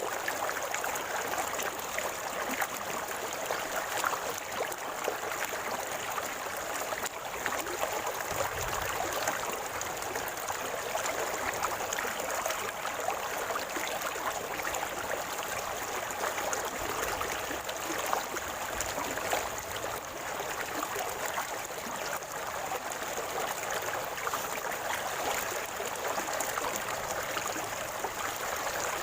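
A river or stream flowing over rocks, a steady gurgling and splashing of running water.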